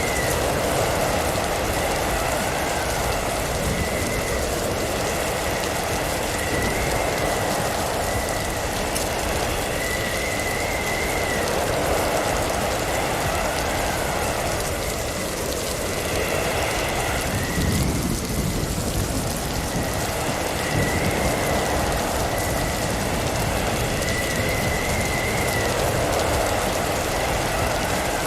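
Blizzard ambience: a steady rush of wind and driven snow that swells and eases in gusts, with a thin wavering whistle coming and going. A single low thud about eighteen seconds in.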